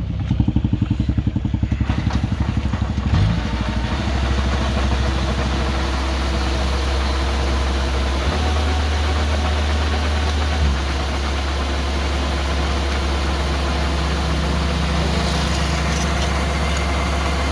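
Diesel engine of a Kubota rice combine harvester running, chugging with a slow, even beat for the first couple of seconds, then settling about four seconds in into a steady, faster running hum.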